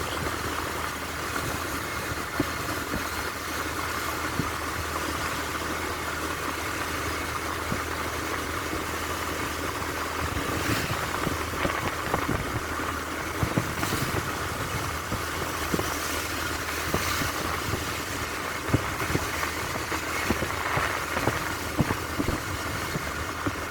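An engine running steadily at low revs, with scattered short clicks and taps over it.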